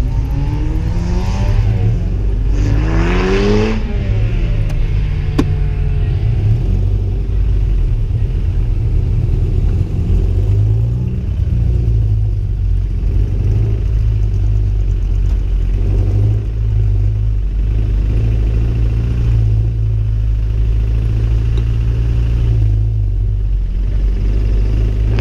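Toyota MR2 Spyder's 1ZZ-FE four-cylinder engine heard from inside the car, revving up with rising pitch in the first few seconds, then running steadily with a heavy low rumble.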